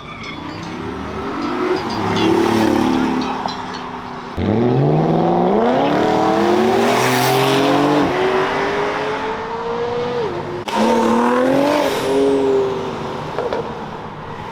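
Sports car engine accelerating hard: after a short rev in the first seconds, the revs climb steadily for about six seconds, drop sharply at a gear change, then climb again.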